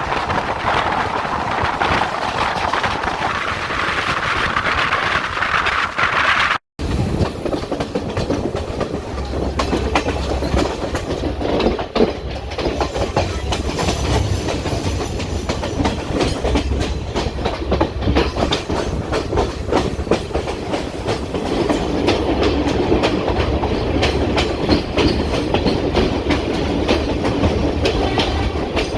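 Passenger train running on rails, wheels clicking over the rail joints in a continuous clatter over a low rumble. A rushing noise dominates the first few seconds, and the sound drops out briefly about six and a half seconds in.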